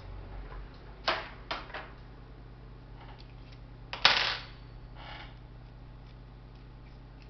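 Small hard clicks and a brief clatter of laptop parts, screws and tools being handled: three sharp clicks in the first two seconds, then a louder short rattle about four seconds in and a fainter one just after.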